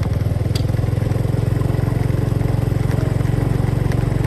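Motorcycle engine running steadily under way, with a low, even pulsing note that holds the same speed throughout.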